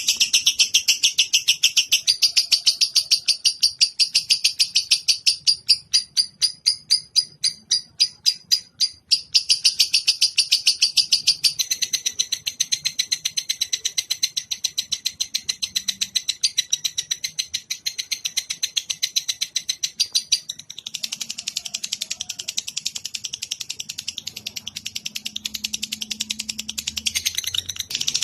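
Cage bird singing a long, fast chattering trill of sharp, high chirps, several a second. It slows to separate chirps for a few seconds, then speeds up again and turns denser and harsher near the end.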